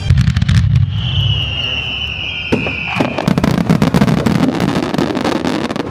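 Fireworks display: sharp bursts over a low rumble, with a shell whistling on a high, slightly falling tone from about one to three seconds in, then dense crackling.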